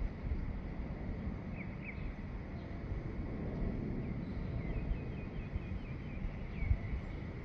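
Small birds chirping faintly in short calls, in a brief pair about two seconds in and a run of chirps in the second half, over a steady low rumble.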